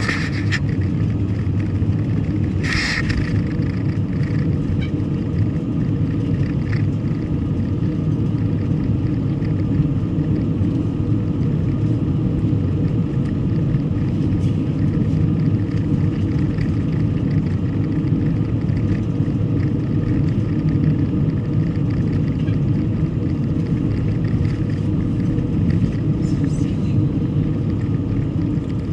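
Steady road and engine rumble of a car being driven, heard from inside. About three seconds in there is a brief hiss.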